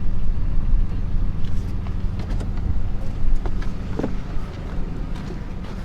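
Dodge pickup truck's engine idling steadily, with a few faint knocks, the clearest about four seconds in.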